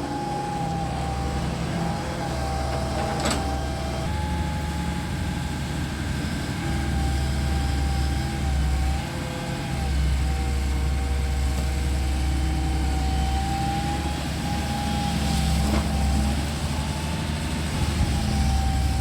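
Excavator's diesel engine running steadily with a low rumble and a high whine that wavers slightly in pitch, with a couple of brief faint knocks.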